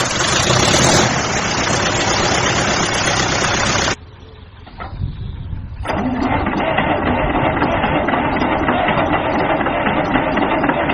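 A vehicle engine runs loudly. About four seconds in it drops away suddenly, and about two seconds later a similar steady engine-like noise comes back in.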